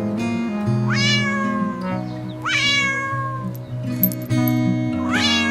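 Cat meowing three times, each meow high-pitched, rising quickly and then falling, over background music.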